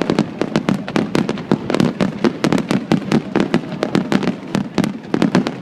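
Fireworks finale barrage: a dense, rapid run of bangs and crackling reports, several a second, with no pause.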